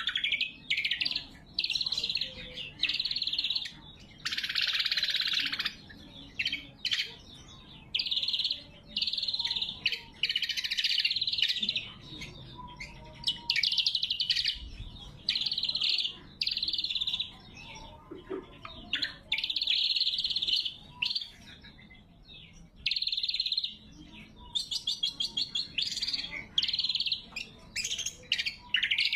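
Greater green leafbird (cucak kombo) singing loud, sharp phrases of chirps and whistles, each a second or so long, repeated with short pauses. Near the end come rapid rattling trills.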